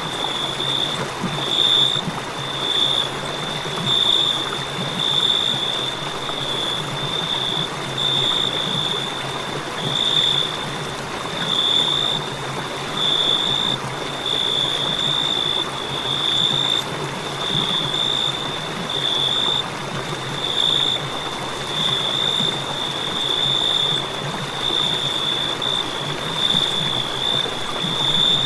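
Cricket singing: a continuous high, shrill trill that swells and eases in pulses every second or two, over a steady low hiss.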